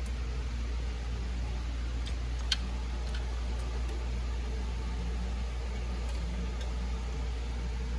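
Light metallic clicks of bolts and hand tools on an exhaust manifold, one sharper click about two and a half seconds in, over a steady low hum.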